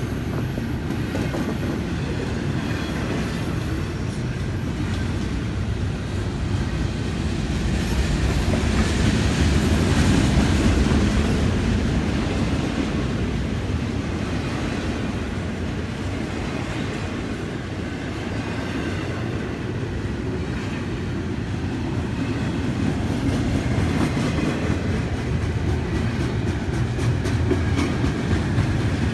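Freight train cars rolling past at close range: a steady low rumble of steel wheels on rail, with clickety-clack over the rail joints.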